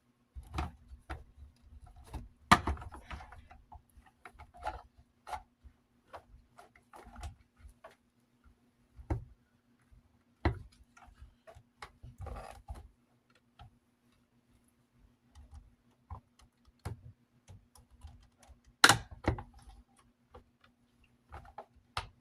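Scattered clicks, taps and knocks of plastic and metal desk-fan parts being handled and worked on by hand, irregular and uneven in loudness, with sharper knocks about two and a half seconds in and near the end.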